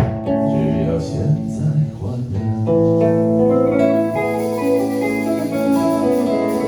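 Acoustic and electric guitars playing together: strummed chords, then long held ringing notes from about two and a half seconds in.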